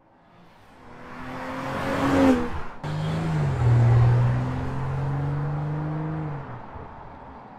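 BMW X3 M40i's turbocharged 3.0-litre straight-six accelerating as the SUV approaches, its note rising to a peak about two seconds in and breaking off abruptly. It then pulls under steady load, dropping in pitch once, and fades near the end.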